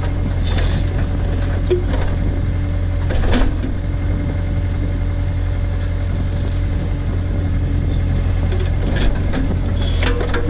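Case/Davis D100 backhoe's engine running steadily while the machine works, with three short bursts of noise from the working machine: about half a second in, near three and a half seconds, and near ten seconds.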